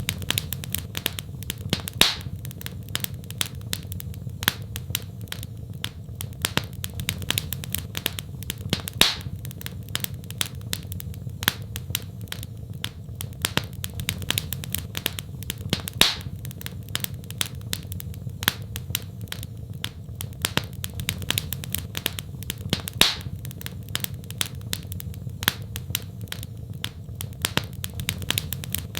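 Wood fire in a fireplace crackling: a dense run of small crackles with sharper, louder pops every few seconds, over a low steady rumble.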